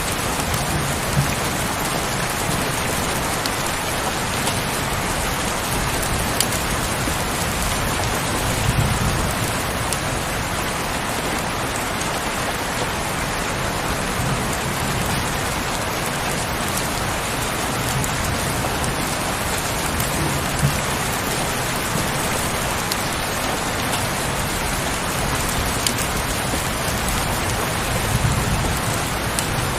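Heavy rain falling steadily, with a few sharper drop ticks now and then and soft low swells twice.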